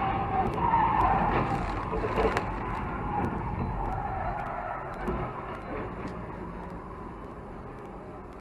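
Car tyres skidding on the road, loudest in the first couple of seconds, then steady road and engine noise that slowly fades.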